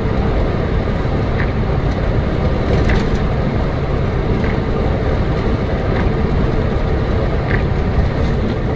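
Steady engine and road noise of a moving car, with a few faint ticks.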